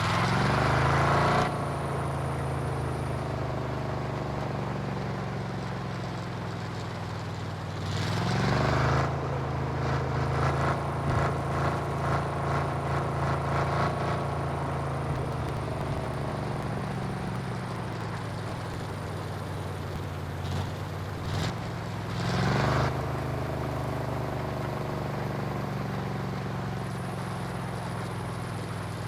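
Chevy 4x4 pickup truck's engine running off-road, revving up sharply three times: right at the start, about a third of the way in, and again near three quarters. A rapid rhythmic pulsing accompanies the engine for several seconds after the second rev.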